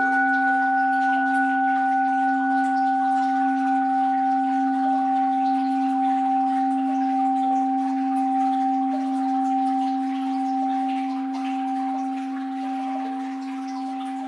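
An orin, a Japanese Buddhist bowl bell, rings out after a single strike, holding a low tone with higher overtones that fade slowly with a gentle wavering pulse. A soft wash of water sound lies faintly beneath it.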